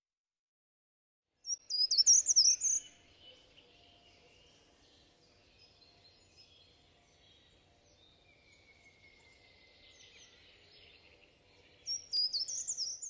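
A songbird sings a short phrase of rapid, high chirps jumping up and down in pitch about a second and a half in, and the same phrase again near the end, over faint outdoor ambience with fainter bird calls in between.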